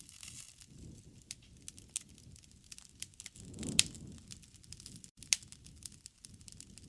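Wood campfire crackling, with scattered small pops over a soft low rumble of the flames and two louder snaps, one near the middle and one about two-thirds of the way through.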